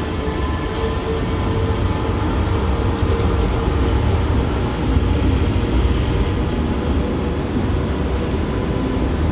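A train moving through a station: a steady rumble of wheels and running gear, with a few faint steady tones above it.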